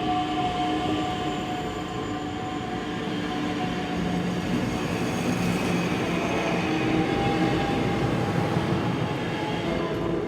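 NICTD South Shore Line electric commuter train running past at street level: steady rail and wheel noise with several steady whining tones on top, growing a little louder toward the end.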